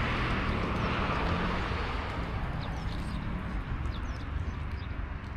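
Outdoor street ambience: a steady rumble of passing traffic, with small birds chirping in short, high notes that come more often in the second half.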